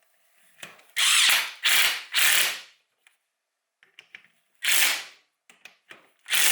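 Ratchet wrench being worked in quick strokes: a run of three ratcheting bursts about a second in, then two more later, with small metallic ticks between.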